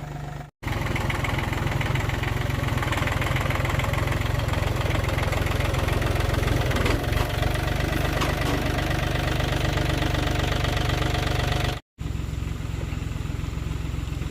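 Old tractor engine running steadily with a fast, even beat, broken twice by abrupt brief dropouts, louder in the long stretch between them.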